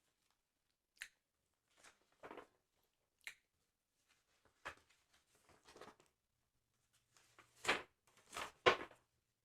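Paper of a sticker album handled close to the microphone: a string of separate short rustles and crinkles with a few sharp clicks between them, the three loudest coming near the end.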